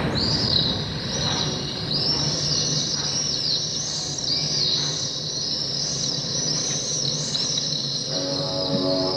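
Bird twittering: a quick run of high chirps, each rising and falling, several a second. Music comes in softly near the end.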